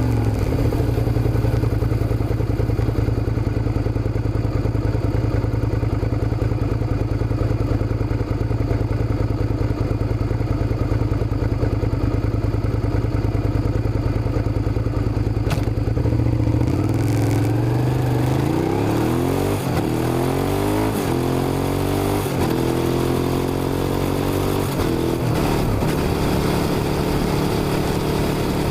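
Suzuki SV650 V-twin motorcycle engine running at a steady speed for about sixteen seconds, then revving up and dropping back several times in rising sweeps.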